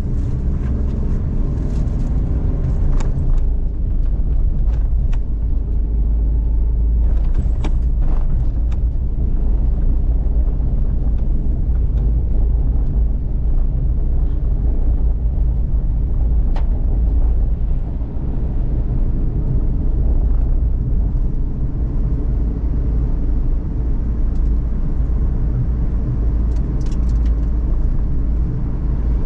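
Cabin sound of a Suzuki Every DA17V kei van on the move: a steady low rumble from its 660 cc three-cylinder engine and road noise, with a few brief clicks and rattles now and then.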